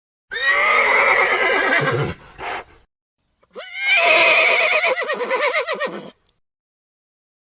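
A horse whinnying twice: a first call of nearly two seconds with a short tail after it, then a longer, wavering whinny of about two and a half seconds.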